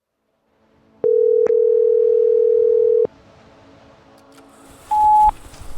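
Electronic beep tones: a steady mid-pitched tone lasting about two seconds, with a click in it early on, then a short higher-pitched beep near the end.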